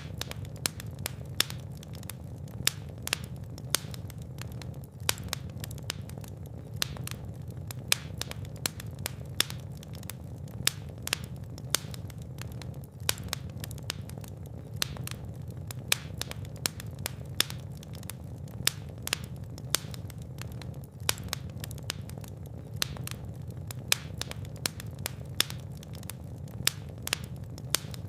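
Fire burning in a fireplace: a steady low rumble with frequent, irregular sharp crackles and pops, several a second.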